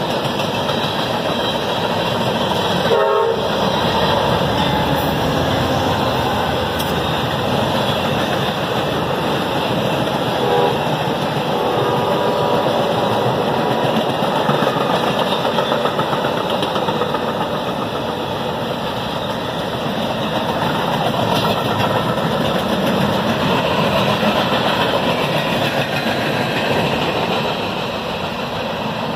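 A CSX freight train of container, tank and hopper cars and an Amtrak passenger train passing close by on adjacent tracks. The wheels make a steady rumble and clatter on the rails.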